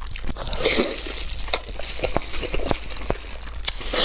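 Close-miked eating: wet chewing and mouth sounds with many small clicks and smacks.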